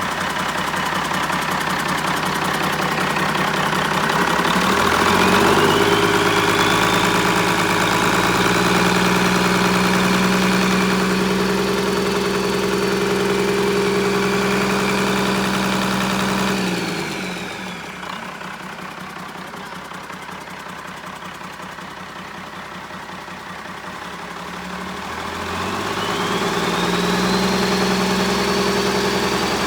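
Turbocharged diesel engine running, revved up and held at speed with a rising turbo whine. It drops back to a quieter idle, the whine falling away, then revs up again near the end.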